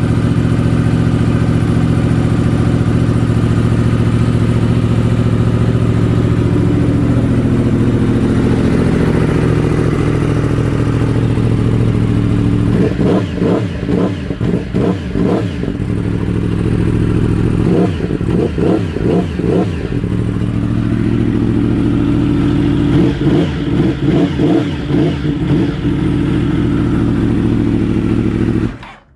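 Yamaha R1M's crossplane inline-four idling, then blipped in three clusters of quick revs over the second half, and shut off just before the end.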